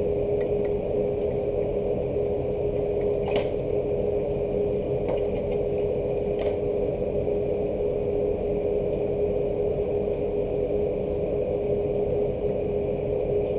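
Steady low mechanical hum with a constant pitched tone held throughout, and a few faint ticks in the middle.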